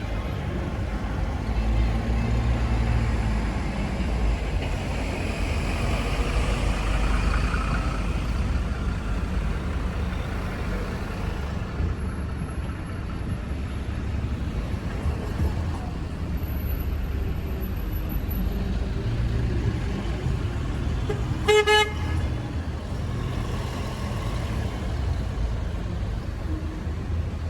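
Steady low rumble of motor traffic, with a short car horn toot about three-quarters of the way through.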